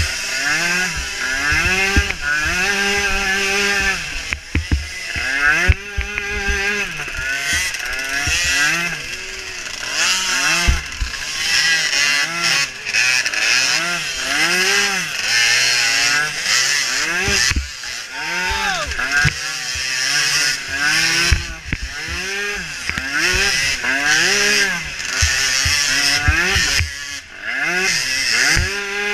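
Small micro ATV engine revving up and dropping back over and over as the throttle is opened and closed, roughly once every second or so, with short low thumps scattered through.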